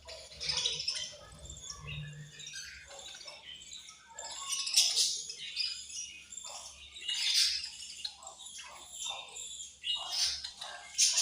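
Several budgerigars chirping and chattering at once in quick, overlapping high calls, with louder flurries about five, seven and ten seconds in.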